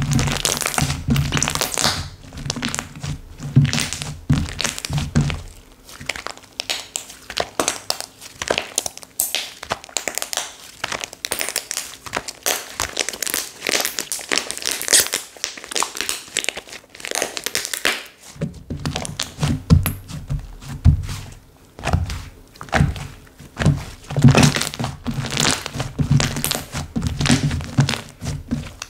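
Slime being squeezed and pressed by hand: a dense run of small clicks and crackles, with soft low thuds in the first few seconds and again from about two-thirds of the way through.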